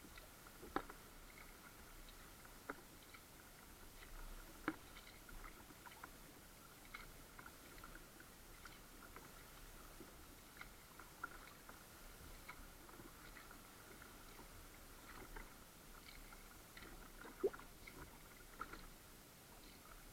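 Kayak on calm water: faint drips and small splashes with scattered sharp knocks, a few of them louder, and a faint steady high tone underneath.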